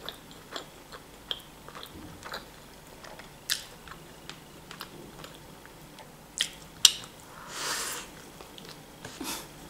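Biting into and chewing a homemade baked pie with potato and chicken filling, close to the microphone: quiet chewing with scattered sharp mouth clicks and smacks, the loudest about seven seconds in, and a longer soft crunch of a fresh bite near the end.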